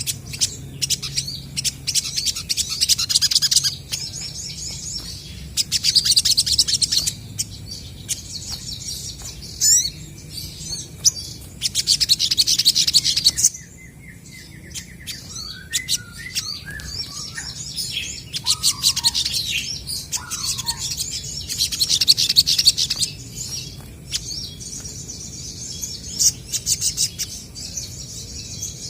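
Olive-backed sunbirds calling back and forth in rapid, high-pitched chattering trills, in bouts of a few seconds. Around the middle there is a short stretch of lower, separate whistled notes.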